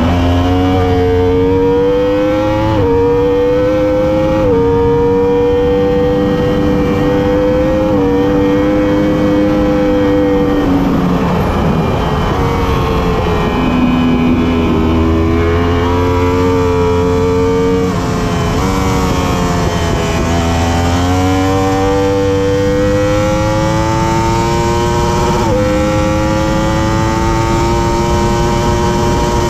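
Superbike racing motorcycle engine under hard acceleration, the revs climbing in each gear and dropping sharply at every upshift, several times. About eleven seconds in, the revs fall off as the bike slows, then it pulls up through the gears again.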